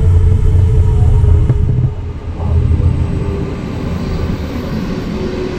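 Stockholm commuter train pulling out of the station: a loud low rumble that drops off about two seconds in, leaving a quieter rumble.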